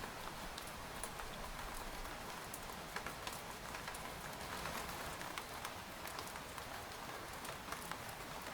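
Rain falling on a tent: a steady hiss of rainfall with irregular sharp taps of single drops striking the fabric.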